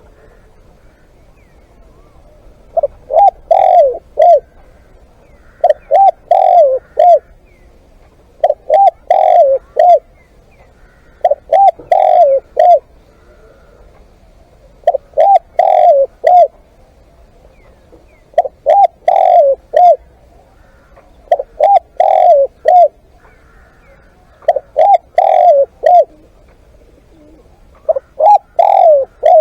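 Spotted dove cooing: a short phrase of three or four coos, repeated about every three seconds.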